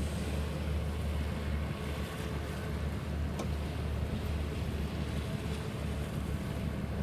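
Wind buffeting the microphone: a steady low rumble that swells and fades, over a soft even hiss.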